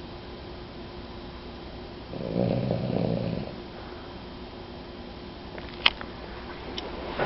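Sleeping dog snoring: one long, low snore about two seconds in, lasting about a second and a half. A sharp click sounds about six seconds in, and another right at the end.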